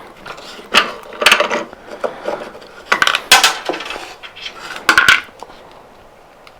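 Hand tools and loose metal parts clinking and clattering, about six sharp knocks spread over the few seconds, as a mower's rear wheel is worked on and taken apart.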